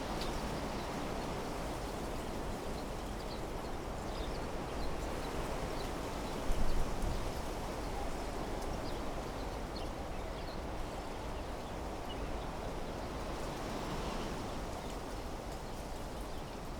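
Steady wind blowing through trees in a desert meadow, with short, faint bird chirps scattered over it. A brief louder rush of wind about six and a half seconds in.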